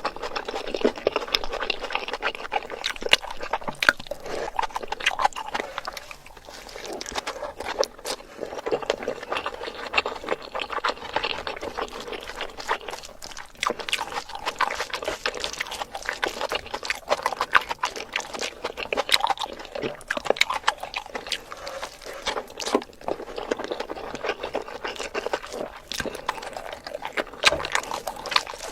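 Close-miked eating sounds of a person chewing chicken and rice: wet chewing and lip smacking with many small sharp clicks and crunches, going on without a break.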